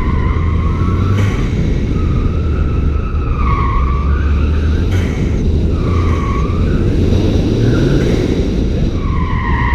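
2014 Ford Fiesta ST's turbocharged 1.6-litre four-cylinder engine running hard through a Cobb cat-back exhaust. Its Falken Azenis RT-615K tyres squeal several times as the car is driven hard through corners.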